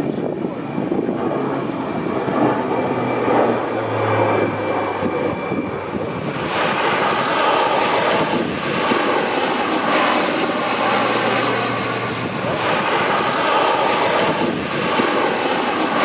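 Airbus A400M's four TP400 turboprop engines running, with a steady low propeller drone. About six seconds in, the sound grows louder and harsher as the aircraft comes closer or powers up.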